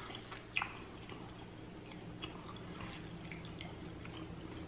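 Faint chewing and mouth sounds, with a few light clicks as a plastic fork digs into a soft baked potato; one sharper click about half a second in, and a low steady hum underneath.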